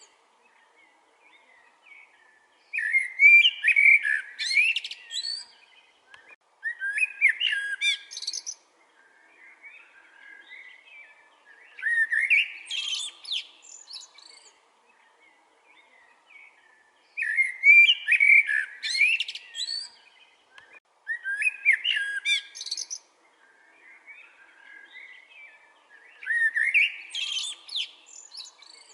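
A songbird singing a complex warbled phrase of about two seconds, repeated six times with pauses of a few seconds between.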